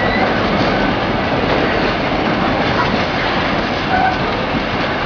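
Heritage passenger carriages of a Kuranda Scenic Railway train rolling past, a steady noise of wheels running over the rails.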